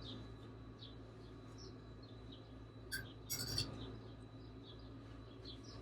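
Faint, short bird chirps repeating every second or so, with a brief clink and scrape of cutlery about three seconds in.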